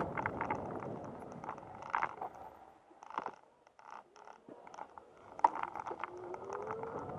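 Bicycle ride noise: scattered light clicks and rattles over a faint rush. It drops to near quiet for a second or so in the middle, and a faint rising tone comes in near the end.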